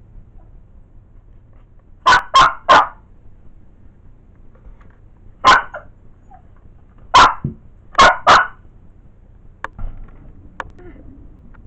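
Cavalier King Charles Spaniel barking: seven sharp barks in three bursts, a quick three, then a single one, then three more.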